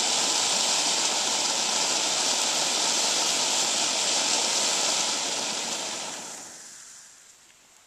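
Ground firework burning like a flare with a steady, loud hiss, which dies away over the last two or three seconds.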